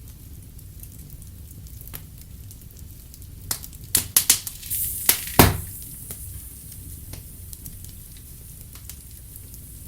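Wood fire crackling in a fireplace: a steady low rumble with scattered sharp pops, and a quick run of loud pops about four to five and a half seconds in.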